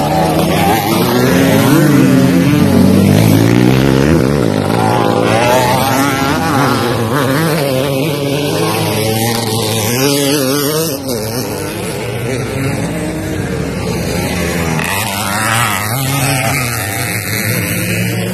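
Several motocross dirt bike engines revving, their pitch rising and falling over one another, loudest a few seconds in.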